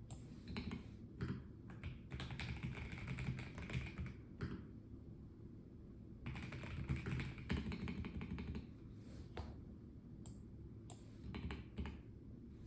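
Typing on a Melgeek Mojo84 mechanical keyboard with a plastic case: two long runs of rapid keystrokes and a shorter one near the end, with single key clicks in the pauses.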